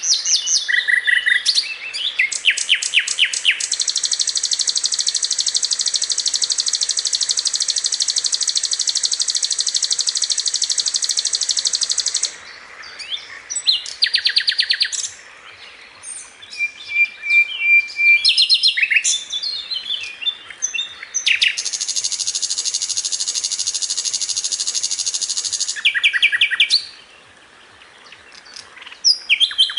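Sikatan londo (a flycatcher) singing: short runs of quick high notes and two long, very rapid high trills, one about nine seconds long and a later one about four seconds. These trills are the 'tembakan' bursts prized in masteran song recordings.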